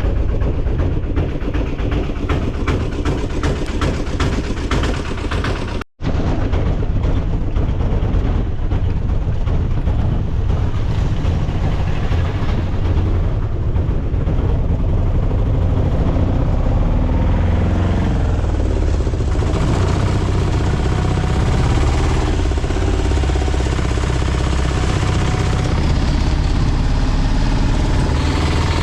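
A vehicle's engine running with steady road noise, as heard on the move, and a brief dropout about six seconds in.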